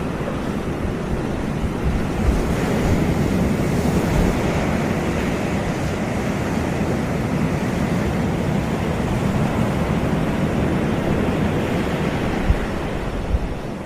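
Sea waves washing onto a beach, a continuous rushing surge that swells and eases, with wind buffeting the microphone.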